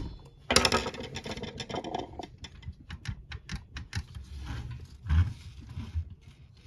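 Plastic model car and parts handled on a desk: a rustle and scrape about half a second in, then a run of small clicks and taps.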